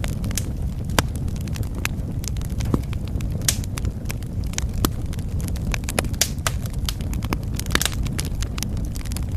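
Wood fire in a fireplace crackling: a steady low rumble of flames with irregular sharp pops and snaps of burning wood, several louder pops scattered through.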